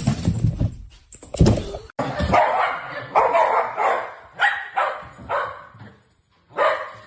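A dog barking repeatedly, about two barks a second, pausing briefly near the end before one more bark.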